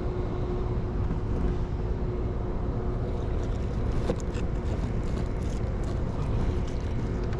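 Steady low rumble with a constant mid-pitched hum, and a few faint clicks about three to four seconds in.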